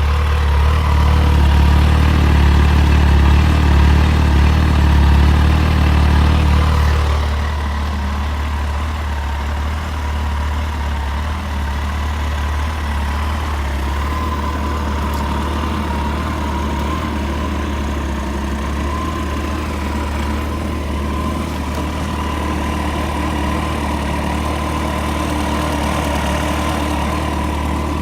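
Kawasaki ZZR1400's inline-four engine idling steadily with no revs. It is louder for about the first seven seconds, then settles a little quieter.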